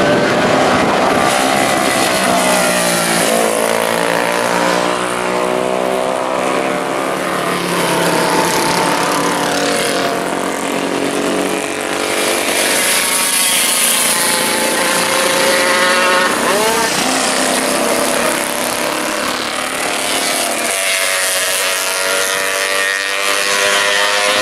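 Classic racing motorcycle engines at high revs, the pitch climbing and dropping repeatedly as they shift gears and slow and accelerate through the course.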